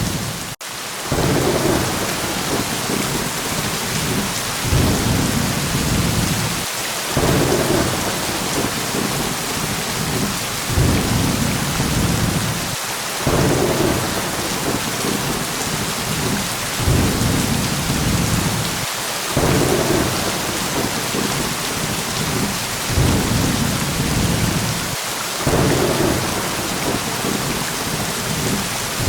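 Steady heavy rain with thunder rumbling in low swells that come back about every six seconds.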